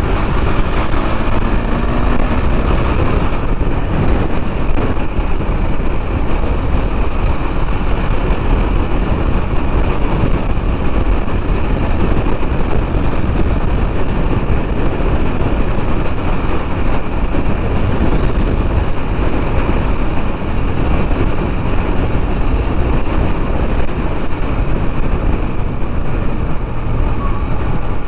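Riding noise from a KTM Duke 390 under way in traffic: its single-cylinder engine running, under a steady loud rumble of wind and road noise.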